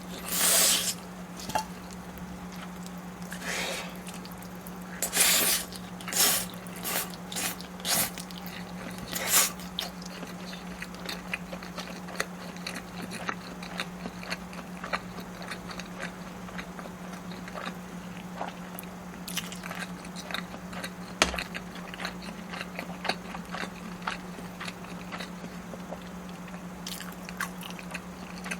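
Close-miked eating: a handful of loud bites in the first ten seconds, then steady chewing with many small wet clicks, over a steady low hum.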